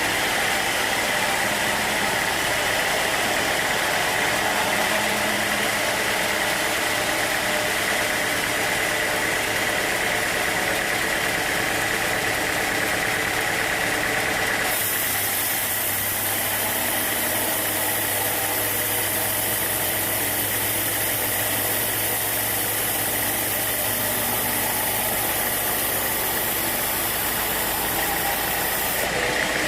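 Sawmill machinery running steadily, a constant engine-like hum with a high whine over it. The sound changes abruptly about halfway through.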